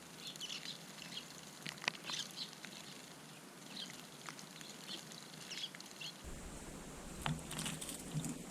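Eurasian tree sparrows giving short, scattered chirps, with a few sharp clicks among them. From about three-quarters through, a low rumble of wind on the microphone comes in.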